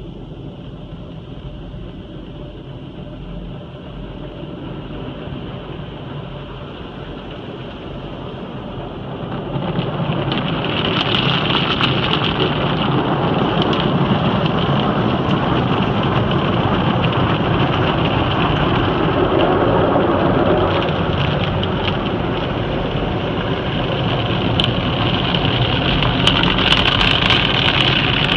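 Touchless conveyor car wash spraying water onto a car: a steady rushing hiss like heavy rain on the bodywork, with a low hum beneath, growing louder about ten seconds in.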